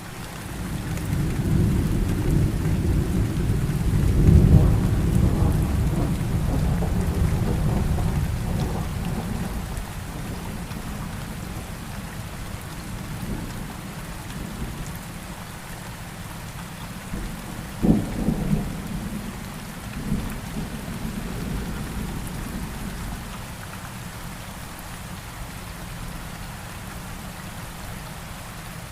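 Steady rain with thunder: a long low rumble swells over the first few seconds and fades by about ten seconds in, then a sharper thunderclap just past the middle, followed by a shorter rumble.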